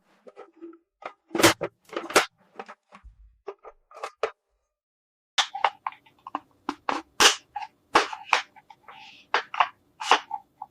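Plastic toy kitchen playset being handled: a string of sharp, irregular clicks and taps, some in quick clusters, as its small doors, buttons and parts are worked.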